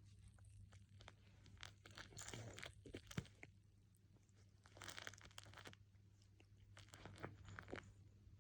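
Faint, irregular crunching and crackling clicks, in clusters about two and five seconds in, over a steady low hum.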